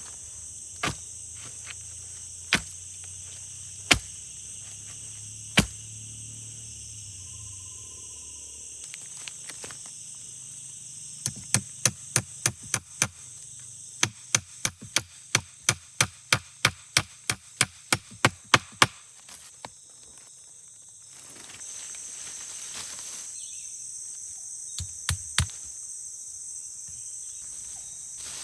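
Sharp blows of a tool on wood: a few single strikes spaced a second or more apart, then a long fast run of about three a second, and two more near the end. Underneath, a steady high-pitched drone of forest insects.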